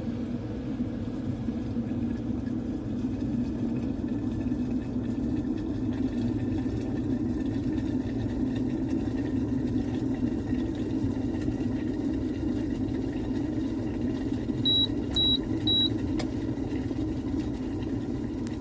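Ecosa 2200 W glass electric kettle heating water, with a steady low rumble of the water coming toward the boil. Near the end, three short high beeps sound from the kettle in quick succession, followed by a single click.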